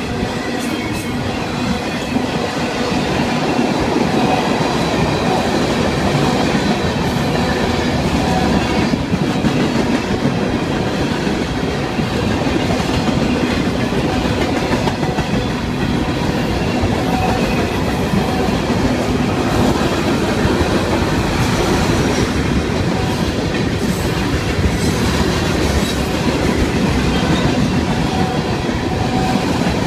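Freight cars of a Florida East Coast Railway mixed freight train rolling past steadily and loud: the continuous sound of steel wheels on the rails, with a few brief sharp clicks.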